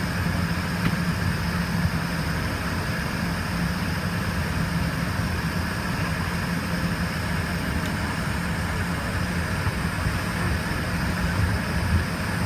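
Steady cabin drone of an Embraer ERJ-145 with its rear-mounted Rolls-Royce AE 3007 turbofans running at low power before takeoff: an even rushing noise over a low hum, with no spool-up.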